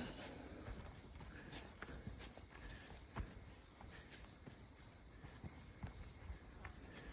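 A steady, high-pitched chorus of insects calling, with faint footsteps on the trail now and then.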